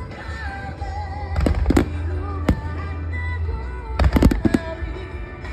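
Fireworks bursting: a quick cluster of sharp bangs about a second and a half in, a single bang in the middle, and another rapid cluster near the end, over a steady low rumble. Music plays throughout.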